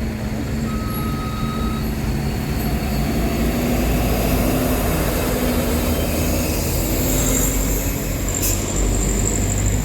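Heavy truck's diesel engine working hard under load, a steady low drone that rises a little in pitch a few seconds in. A high squeal joins it about seven seconds in.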